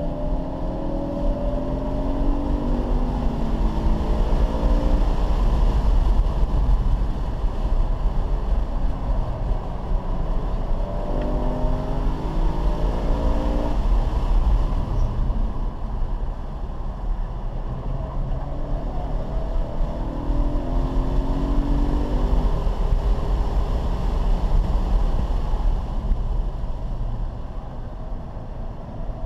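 Car engine heard from inside the cabin while driving hard on a track, its pitch climbing in three spells of acceleration and stepping down at each gear change, over a steady heavy rumble of road and wind noise.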